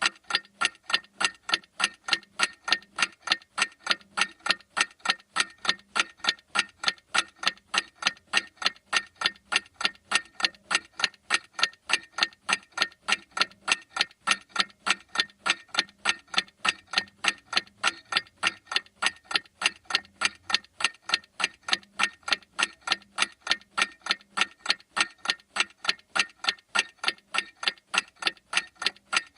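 Clock ticking steadily, with quick, evenly spaced sharp ticks at roughly two to three a second.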